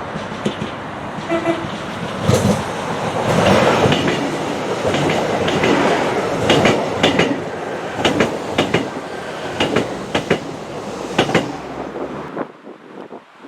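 A train passing, its wheels clicking repeatedly over rail joints and points, with a short horn note about a second and a half in. The sound drops away abruptly near the end.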